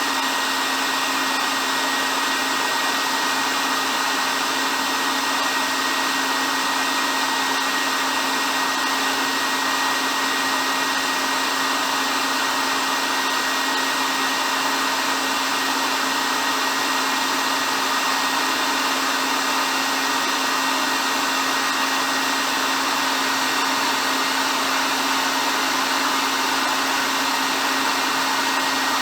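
Hair dryer running steadily: an even rush of blown air with a constant motor hum and a faint high whine, unchanging throughout.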